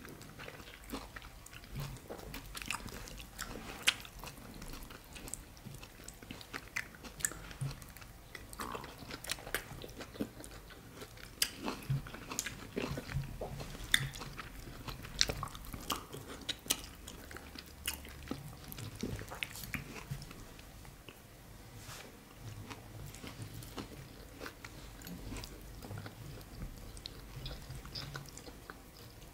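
Close-miked mouth sounds of people eating fufu with banga soup by hand: chewing and biting, with many short sharp smacks at irregular intervals.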